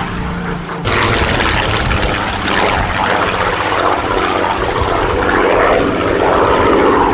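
Supermarine Spitfire XIV's Rolls-Royce Griffon piston engine and propeller at high power on a low strafing pass. The sound suddenly gets louder about a second in and stays loud.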